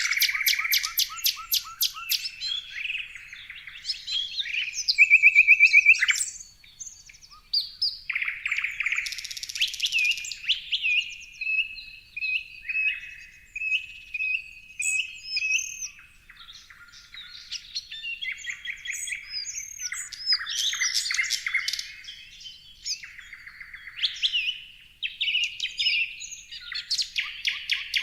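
Several songbirds chirping and singing over one another, a dense mix of short chirps, whistled notes and trills, with a loud rapid trill about five seconds in.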